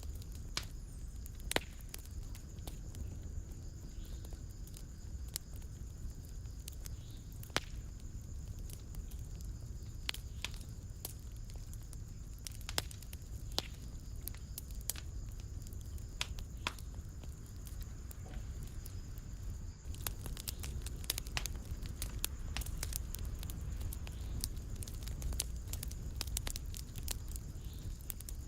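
Wood fire in a fireplace crackling: irregular sharp pops and snaps over a low, steady rumble of the flames. The pops come more often in the last third.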